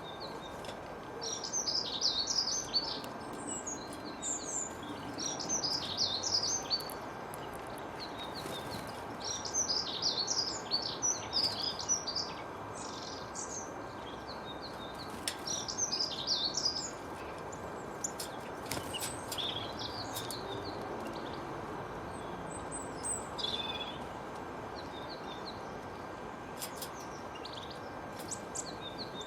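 Small songbirds chirping in quick clusters of high, rapid notes, phrase after phrase with short gaps, thinning out in the second half, over a steady background hiss.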